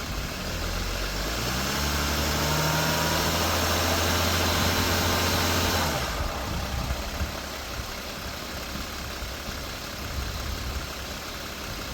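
Mercedes Sprinter 3500XD diesel engine on a cold start, revved up: the pitch climbs over about a second and a half, is held for a few seconds, then drops back to idle about halfway through and settles there.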